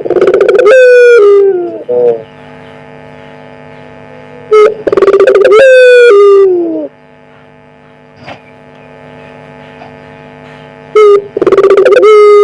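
Puter pelung dove cooing: three calls a few seconds apart, each a short note followed by a long, drawn-out coo that drops in pitch at its end, very loud. A steady hum runs underneath.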